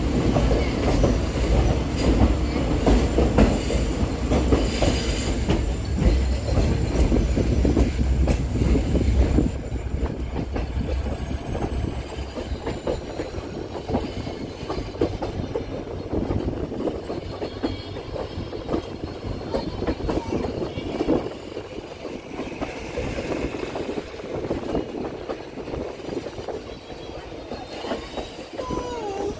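Passenger train running along the track, heard on board: a heavy deep rumble with rail clatter that drops off abruptly about nine seconds in to a lighter rattling run. A faint wheel squeal near the end.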